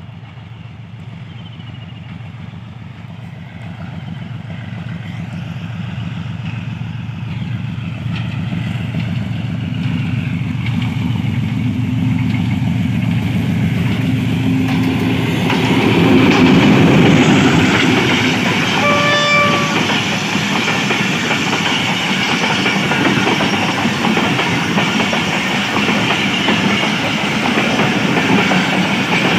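Diesel locomotive 8041 hauling a passenger train approaches, its engine growing louder until it passes at the loudest point just past halfway. A short horn blast sounds about a second later, and then the coaches roll by with a steady clickety-clack of wheels on the track.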